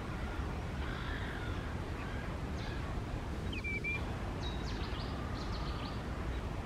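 Steady low outdoor rumble with faint high bird calls: soft calls about a second in, a short whistled call with a rising hook about three and a half seconds in, and a quick run of high ticks soon after.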